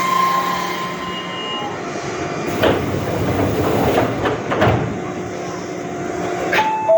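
Keisei Line electric train moving through the station. Its running noise carries a steady hum and a few sharp clacks of the wheels over rail joints, near the middle and again near the end.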